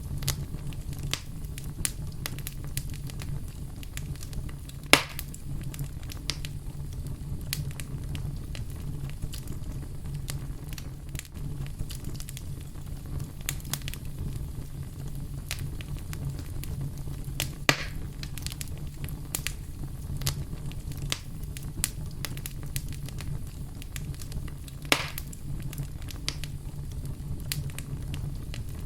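Campfire burning with steady crackling and a low rumble of the flames, with three louder pops about 5, 18 and 25 seconds in.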